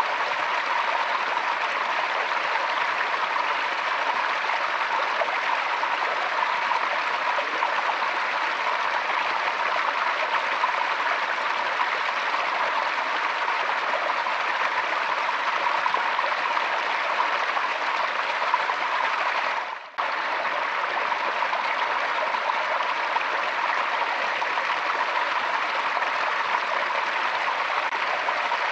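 Forest stream flowing: a steady rush of running water. About twenty seconds in, it fades out briefly and cuts straight back in.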